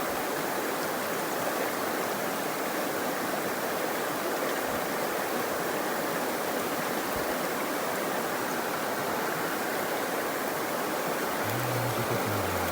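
Mountain stream water rushing steadily over rocks, a constant even noise.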